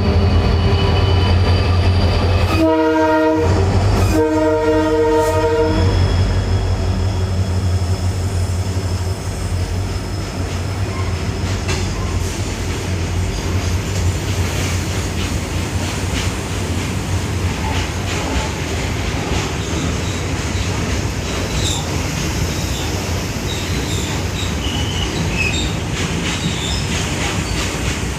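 EMD diesel locomotive running with a deep steady engine hum, sounding its horn twice in quick succession a few seconds in, the second blast longer. The train then rumbles past with wheel clatter and brief high wheel squeals near the end.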